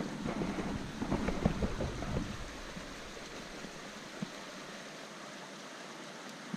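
Knocks and low rumble of a camera being handled for the first two seconds or so, then a steady faint hiss with a single small click about four seconds in.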